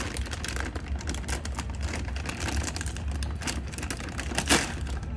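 Irregular crackling and rustling over a low, uneven rumble, with one sharper knock about four and a half seconds in.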